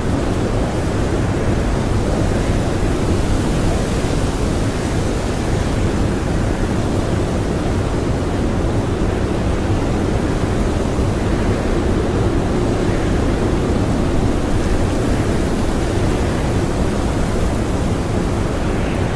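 Blizzard wind blowing hard and steadily, a dense rushing noise heaviest in the low end, with slight swells in strength.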